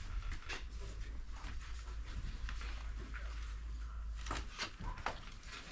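Scattered knocks and taps of hand tools on timber during coop building, over a steady low rumble, with a cluster of sharper knocks about four to five seconds in.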